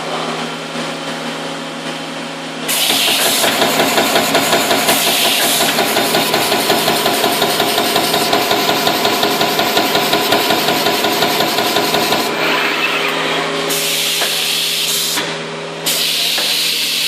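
CNC turret punch press perforating sheet metal: a steady machine hum, then a fast, even run of punching strokes lasting about ten seconds. Near the end come two bursts of air hiss.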